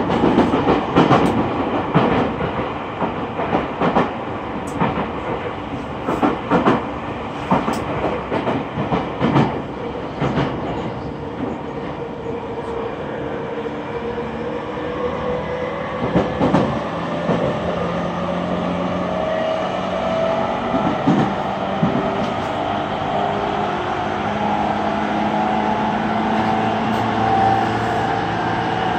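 Interior running sound of a JR East E231 series 800-subseries commuter train at speed. The wheels click over rail joints through the first half. Then it settles into a steadier hum with a whine that slowly rises in pitch toward the end.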